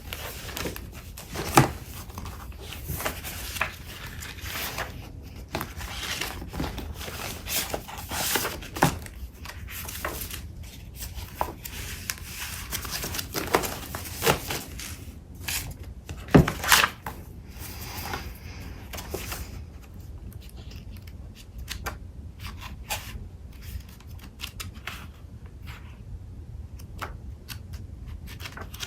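Sheets of paper and card being handled and sorted by hand: rustling, shuffling and crinkling, with frequent sharp taps and clicks as pieces are set down.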